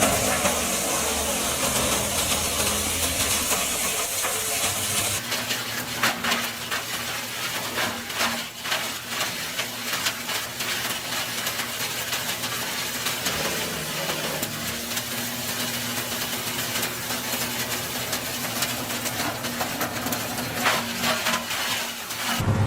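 Wood chipper running: a steady engine hum under a hiss and many sharp crackles as wood is shredded. The high hiss drops away about five seconds in, and the sound changes abruptly near the end.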